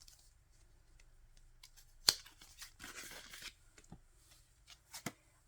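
Photocards and album packaging being handled: small clicks, a sharp snap about two seconds in, then about a second of tearing rustle, with a couple more clicks near the end.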